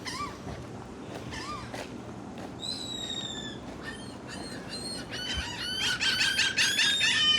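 Gulls calling: a few scattered single calls at first, then from about five seconds in a rapid run of many overlapping calls that is the loudest part.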